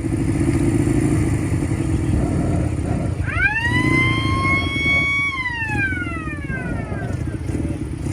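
Small jet turbine engine on a vehicle going by: a steady low rumble, then about three seconds in a whine that rises sharply, holds for about two seconds and then falls steadily away.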